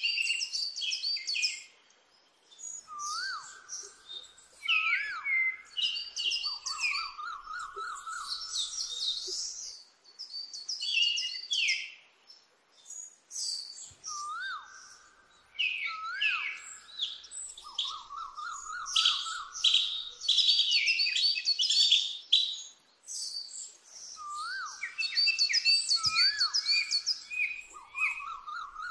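Birds chirping and singing, many short high calls overlapping with a lower trilled phrase. The same sequence repeats about every eleven seconds, as a looped recording would.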